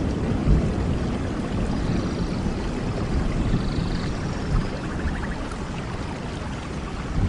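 Steady heavy rain, a dense rushing noise with a deep, uneven rumble underneath. A few faint short high chirps sound over it.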